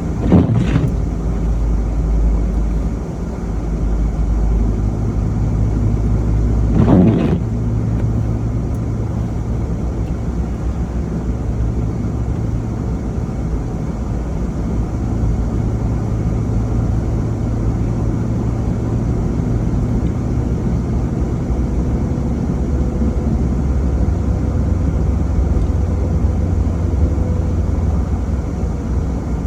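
Car driving on a snowy road: a steady low drone of engine and road noise with a low hum that drops lower about 24 seconds in. Two short louder rushes of noise come near the start and about seven seconds in.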